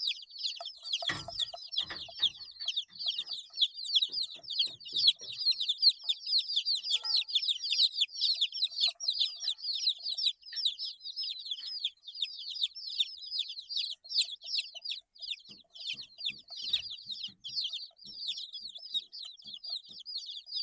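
A brood of eight-day-old chicks peeping without pause: many short, high, downward-sliding peeps overlapping. There is a brief knock about a second in.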